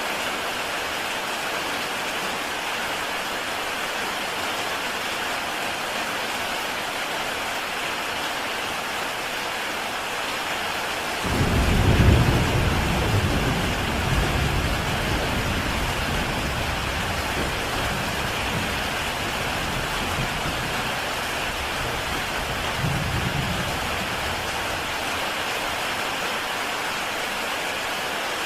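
Heavy rain falling steadily on a tile roof. About eleven seconds in, a low rumble of thunder breaks in. It is loudest within its first second, then rolls on and fades over some ten seconds, with a smaller swell near the end.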